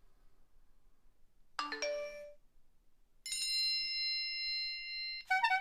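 Mobile phone ringtones and alert tones played one after another: a short chime of several notes about one and a half seconds in, then a long steady electronic tone of about two seconds, then a quick run of repeated electronic notes near the end.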